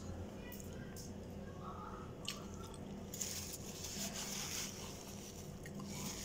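A person biting and chewing pieces of chicken close to the microphone, with a few sharp clicks, then a soft rustling hiss for a couple of seconds as a paper tissue is handled.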